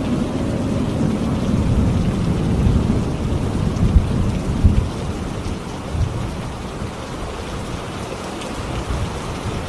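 Steady heavy rain with rolling thunder rumbling low through the first half, peaking with a couple of deep thuds about four to five seconds in, then fading, leaving the rain alone.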